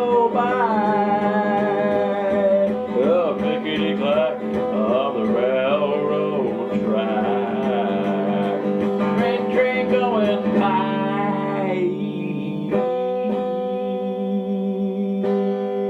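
Acoustic guitar strummed under a man's wordless singing. About eleven seconds in the voice stops, and a last strummed chord rings on and slowly fades.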